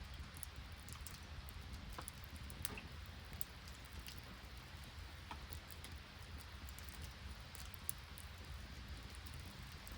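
Steady soft hiss of light rain and sleet, with scattered sharp ticks and pops from an open wood campfire.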